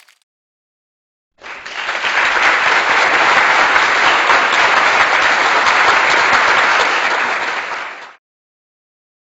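Crowd applause as a stock sound effect: a dense burst of clapping that starts about a second and a half in, holds for about six seconds, then fades out and stops.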